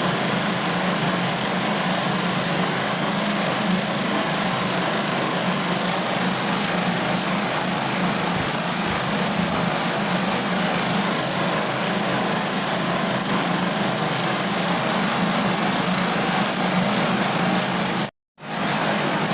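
Steady rain, an even unbroken hiss with a low constant hum underneath. It cuts out to silence for a split second about a second before the end, then resumes.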